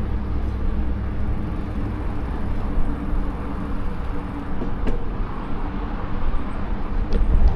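Steady low rumble of wind buffeting the microphone and tyre noise while riding a bicycle, with two faint clicks in the second half.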